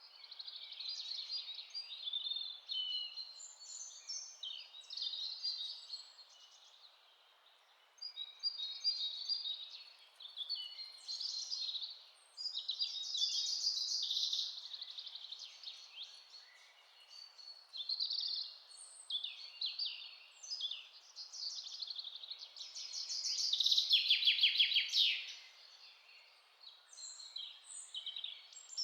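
Songbirds singing in a forest: many overlapping chirps and trills from several birds, with a short lull about seven seconds in and the loudest burst of song near the end, over a faint steady background hiss.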